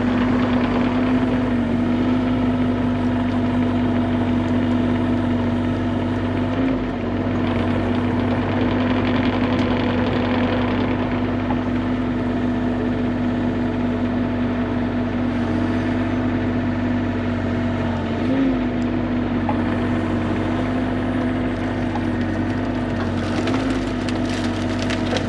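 Bobcat E35 mini excavator's diesel engine running at a steady speed with a constant humming drone, easing slightly under load once or twice.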